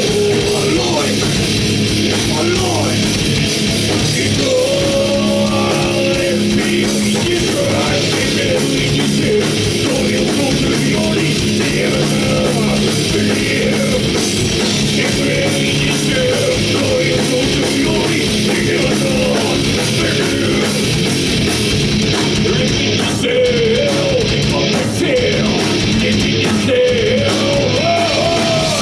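A heavy rock band playing live and loud: distorted electric guitars, fast drums and vocals.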